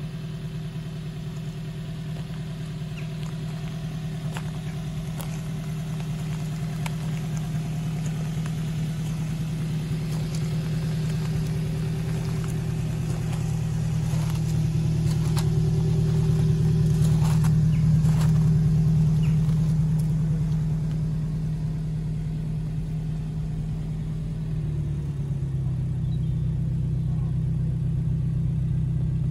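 Morgan Plus 4's four-cylinder engine, fitted with throttle bodies, idling steadily. The idle note drops a little near the end as the revs settle lower.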